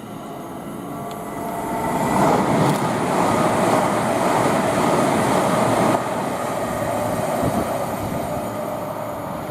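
Electric passenger trains, a Class 807 and a Class 390 Pendolino, passing through at speed: a wheel-and-rail rumble swells about two seconds in and drops abruptly about six seconds in, then runs on at a lower level.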